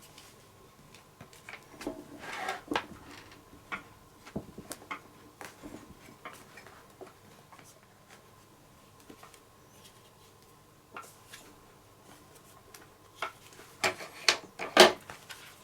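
Handling noise from a leather baseball glove being worked on by hand while grease is put into it: scattered rubbing, rustling and small clicks, with a few louder knocks near the end.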